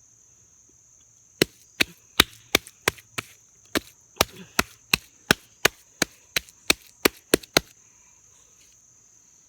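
A quick series of about seventeen sharp slaps on wet dirt, two or three a second, as the mud of a jump is patted and packed down. A steady high drone of insects runs underneath.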